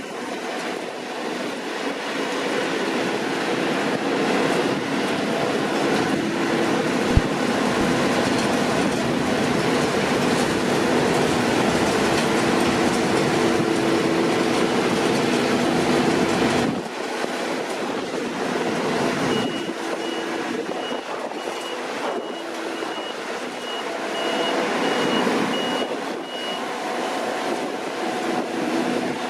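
Deutz-Fahr C9306TS combine harvester working, its engine and threshing machinery running loud and steady until the noise drops suddenly about two-thirds of the way through. Near the end a reversing alarm sounds a regular series of short high beeps for several seconds.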